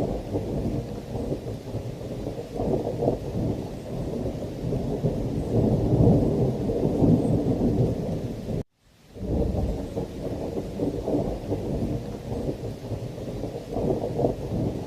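Thunderstorm ambience: steady heavy rain under continuous rolling thunder rumble. The sound cuts out for a split second about two-thirds of the way through, then resumes.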